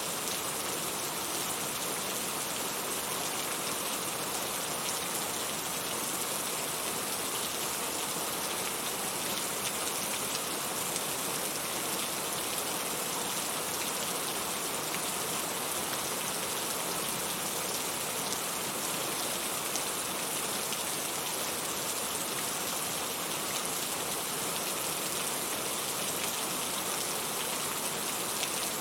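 Steady rain falling, a continuous hiss of many drops pattering on a surface.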